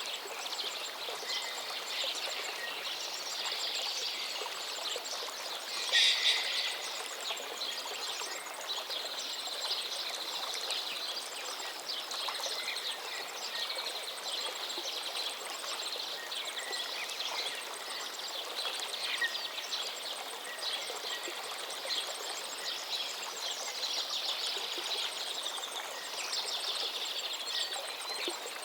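River water running steadily, with small birds chirping and twittering over it throughout. A brief louder burst stands out about six seconds in.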